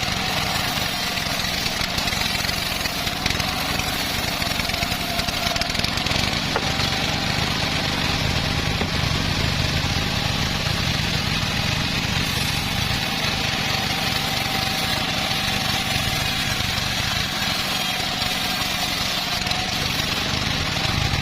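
Homemade bandsaw sawmill running steadily: a constant engine drone with a thin, steady higher tone over it.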